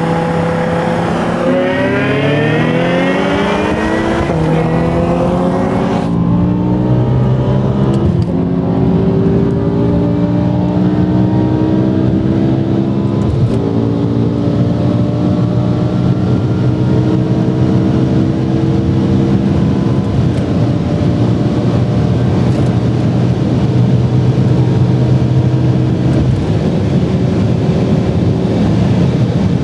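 A BMW M6's engine at full throttle in a rolling acceleration run. It goes from a steady cruise into a hard pull, rising in pitch with quick upshifts about a second and a half in, around four, six, eight and thirteen seconds in. It then holds one long, slowly rising pull in a high gear at high speed.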